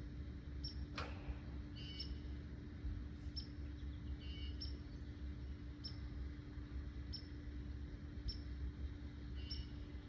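A small bird calling with short, high chips repeated evenly, about one every 0.7 seconds, with a few lower notes mixed in. A steady low hum runs underneath, and a single sharp click sounds about a second in.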